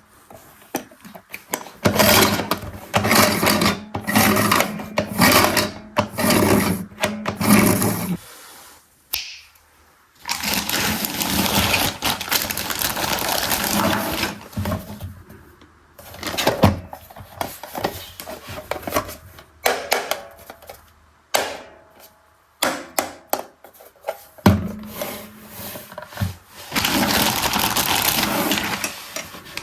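A toy mini washing machine being handled and worked: plastic clicking, rattling and clattering in irregular bursts, with a low steady hum under some of them.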